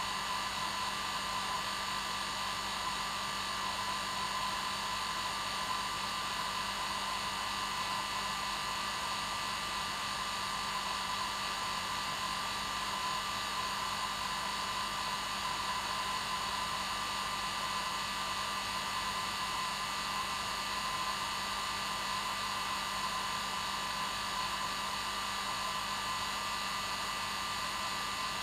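Hair dryer running steadily at one setting: an even hiss of rushing air with a steady motor hum and whine.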